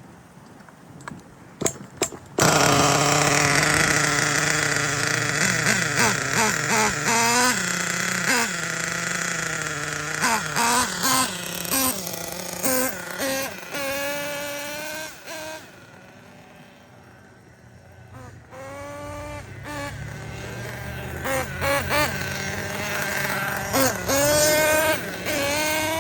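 Small two-stroke nitro engine of an RC monster truck starts up about two seconds in and runs with repeated throttle blips, its pitch rising and falling. Midway it settles low for a couple of seconds, then revs up again near the end.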